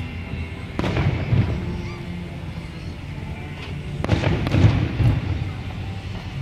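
Fireworks going off in two loud volleys, the first about a second in and a bigger one about four seconds in, each a burst of bangs and crackle over a steady low rumble.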